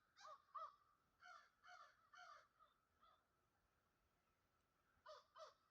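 Faint, distant crows cawing in short calls, mostly in pairs, with a pause of about two seconds in the middle.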